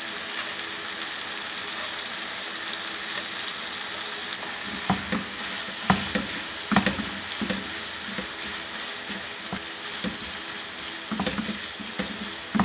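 Tomato masala sizzling steadily in a non-stick wok. From about five seconds in, a spatula stirs freshly added fried bitter gourd through it, with short scrapes and knocks against the pan.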